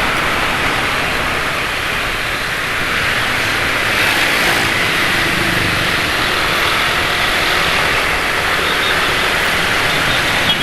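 Motorcycle engines running in road traffic under a steady rushing noise, with a slightly louder engine passing about four seconds in.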